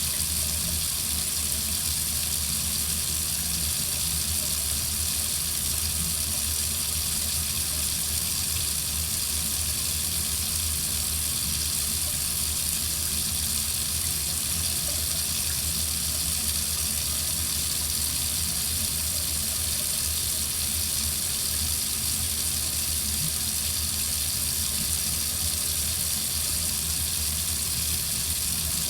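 Water running steadily from a faucet into a sink, an even hiss that does not change.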